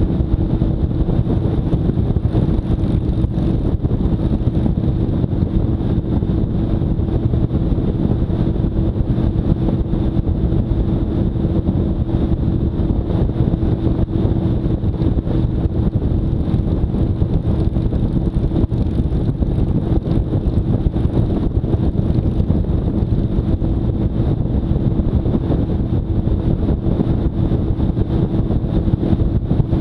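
Motorcycle riding at a steady speed: the engine drones at one unchanging pitch under heavy wind rush on the microphone.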